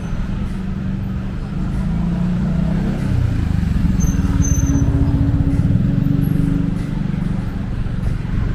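City street traffic: a motor vehicle's engine running close by, growing louder about three seconds in and easing off again near the end.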